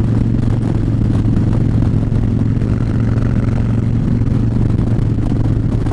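Harley-Davidson Fat Bob's V-twin engine running steadily at cruising speed, with wind rumble on the helmet-mounted microphone.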